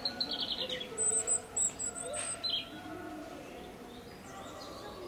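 Small birds chirping: a fast trill of repeated notes in the first half-second, then a string of high, thin chirps from about one to two and a half seconds in.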